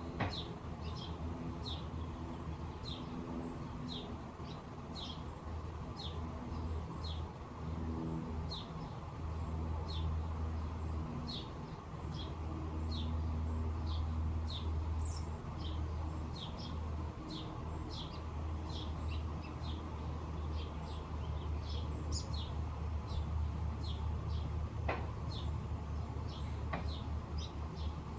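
A bird chirping over and over in short, high, downward-sliding notes, about one or two a second, over a steady low rumble.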